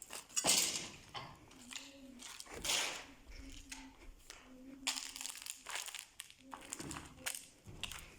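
Irregular rustling and crunching of paper and debris, with short crackles and scrapes, in a small room; faint voices murmur underneath.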